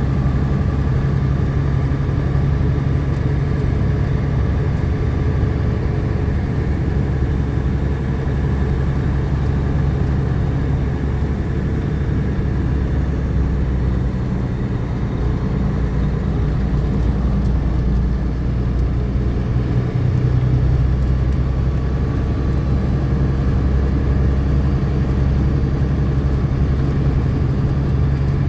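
A milk tanker truck's engine running steadily while driving, a continuous low drone with road noise.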